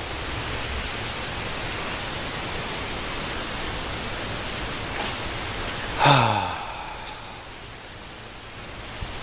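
A steady hiss, with one short, louder voice-like sound about six seconds in that falls in pitch.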